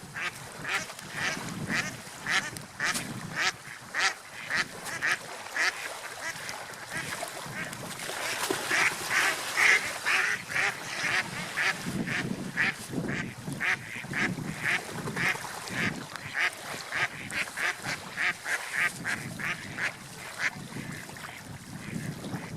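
Ducks quacking in a quick run of short calls, two or three a second, busiest and loudest about nine to ten seconds in, over a low steady background of water and wind.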